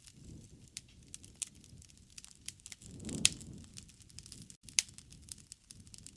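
Campfire crackling: irregular sharp pops and snaps over a low rush of burning, with a fuller surge of flame noise and a loud pop about three seconds in.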